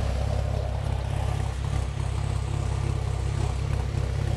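2010 Chevrolet Camaro's 3.6-litre V6 engine idling through its exhaust, a steady low rumble with an even pulsing to it, set up with a 'ghost cam' tune that gives the idle a lope.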